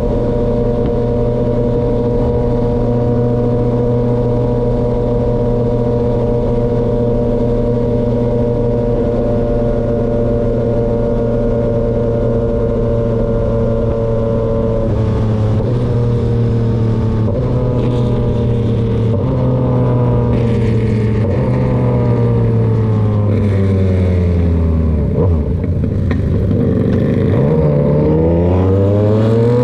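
Motorcycle engine through an SC-Project aftermarket exhaust, under way: it holds a steady pitch while cruising, then about halfway through falls in a series of steps as the bike slows, and near the end rises steeply as it accelerates hard.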